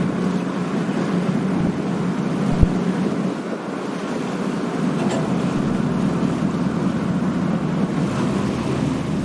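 Passenger ferry's engine running with a steady low hum under the wash of water and wind buffeting the microphone. A single sharp tap about two and a half seconds in.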